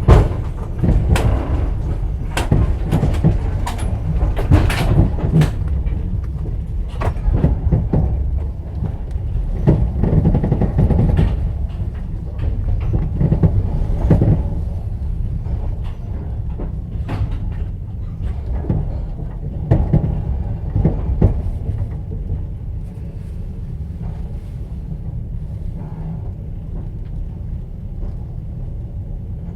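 Russian passenger train carriage running: a steady low rumble with repeated clattering knocks of the wheels and rattles of the carriage, busy through most of the stretch and easing to a steadier rumble near the end.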